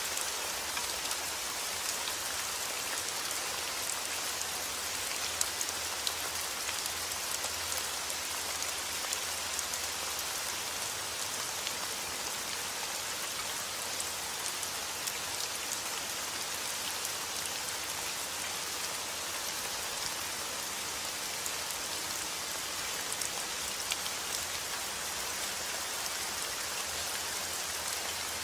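Steady heavy rain falling outdoors, an even hiss with many small sharp drop ticks.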